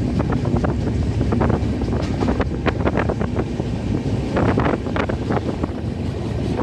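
Passenger train running at speed, heard from inside the coach by the window: a steady low rumble with wind buffeting the microphone and frequent irregular clicks and rattles.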